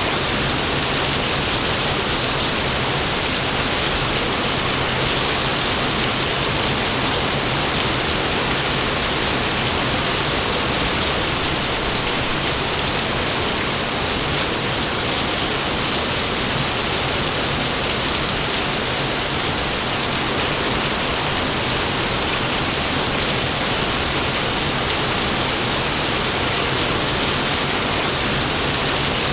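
Heavy rain falling steadily, an even continuous hiss with no thunder in this stretch.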